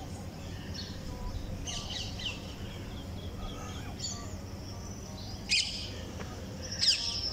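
Birds chirping and calling in short, repeated notes, with two loud, sharp calls near the end, over a steady low background noise.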